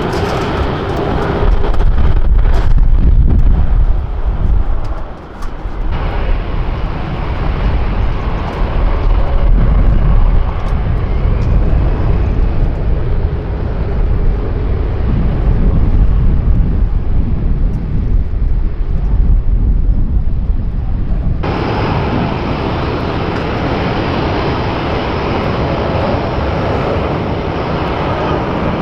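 Jet airliner engine noise: a loud, steady low rumble and rush that changes abruptly twice, at about six seconds and about twenty-one seconds.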